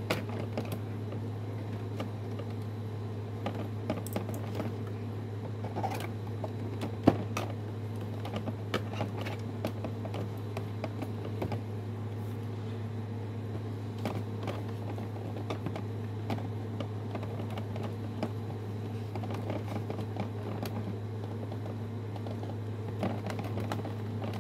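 Irregular small clicks and taps, like objects being handled, over a steady low electrical hum, with one sharper click about seven seconds in.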